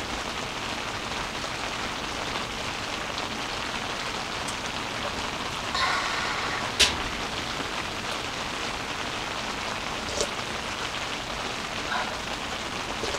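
Steady rain pattering on the fabric of a one-touch hexagonal tent, heard from inside the tent. A sharp click about seven seconds in and a softer one about ten seconds in.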